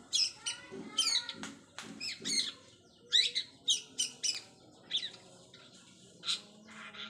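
Long-tailed shrike (cendet) singing a rapid run of short, varied chirps and downward-sweeping whistles, practising mimicked song phrases; the notes pause briefly near the end before one more call.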